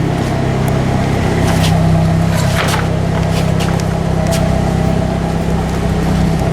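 Exhaust note of a 2002 Saturn Vue's 2.2-litre Ecotec four-cylinder engine idling steadily once warmed up, its idle settled a little lower. A few faint clicks are heard over it.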